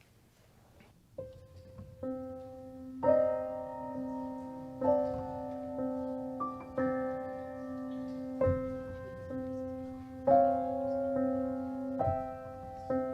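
Piano playing slow closing music: a few soft single notes about a second in, then chords struck every second or two, each ringing on and fading before the next.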